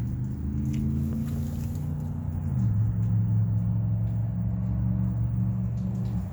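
A vehicle engine running steadily with a low hum, its pitch dropping and settling about two and a half seconds in.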